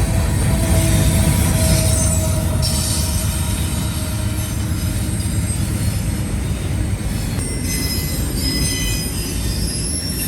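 Freight train cars rolling past with a steady rumble, and thin high-pitched wheel squeal that comes and goes over it.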